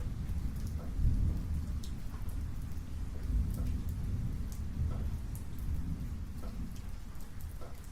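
Thunder rumbling low and continuously through a rainstorm, swelling about a second in, with scattered raindrops ticking and dripping over it.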